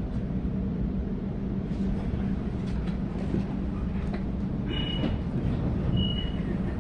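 Running noise inside a Sydney Trains Waratah A-set carriage: a steady low rumble of the train on the rails, with two brief high squeals in the second half.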